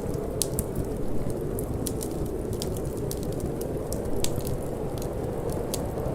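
Wood fire crackling in a fireplace, with many irregular sharp pops and snaps, over a steady low rush of wind.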